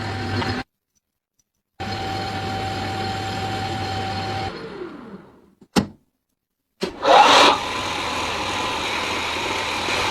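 A small electric power tool's motor running steadily with a whine. About four and a half seconds in it is switched off and spins down, there is a sharp click, and about seven seconds in it starts again, revving up to speed and running on.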